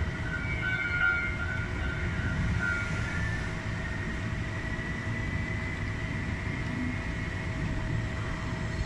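Electric commuter train running along the track, heard from inside the driver's cab: a steady low rumble of wheels on rails with a faint, steady high whine.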